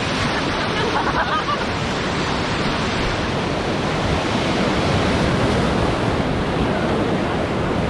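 Steady rushing of whitewater river rapids around a raft, a dense even noise at full strength throughout.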